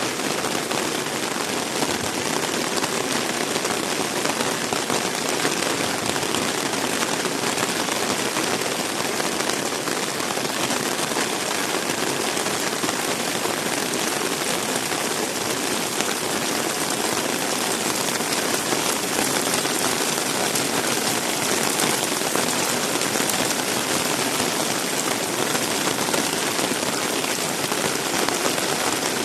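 Heavy rain pouring steadily: a dense, even hiss of drops splashing, with no let-up.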